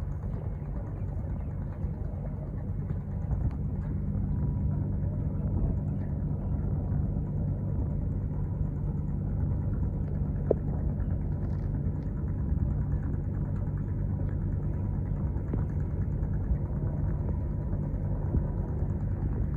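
A boat's engine running steadily: a low, even drone that holds one pitch throughout.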